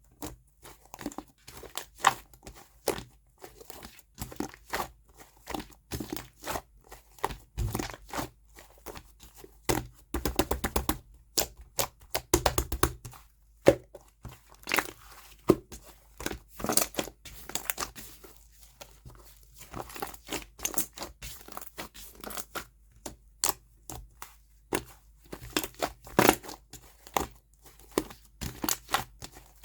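Slime being stretched, folded and pressed by hand, giving off irregular crackling, sticky popping clicks and soft tearing sounds, a little denser about a third of the way through.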